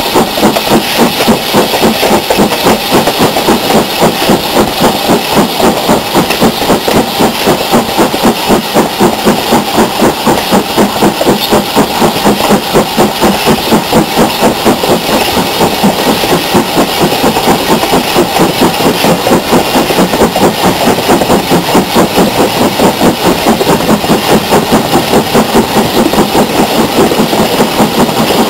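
Steam locomotive working under load, its exhaust beating in a steady even rhythm of about three beats a second over a continuous hiss of steam.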